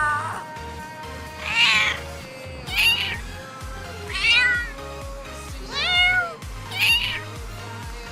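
Domestic cat meowing five times, each meow a short call that rises and falls in pitch, over background music with a low pulsing bass.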